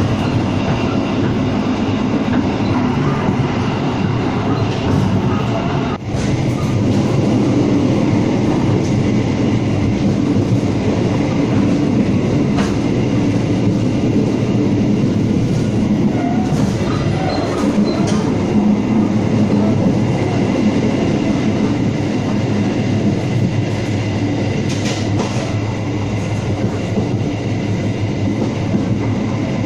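Kaligung passenger train running along the line, heard from inside the carriage as a steady rumble and rail noise.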